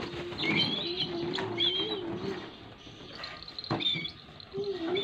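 Birds chirping in short high calls over a low wavering tone, with a single sharp knock a little before the end.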